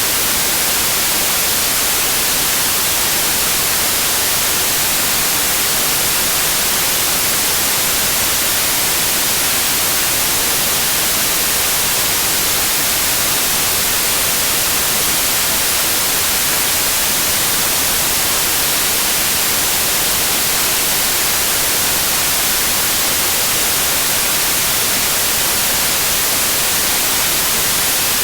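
Steady synthetic white noise: an even, unchanging hiss, strongest in the highs.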